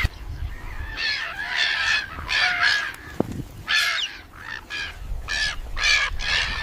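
A series of short, harsh animal calls in quick, irregular succession, about nine in all.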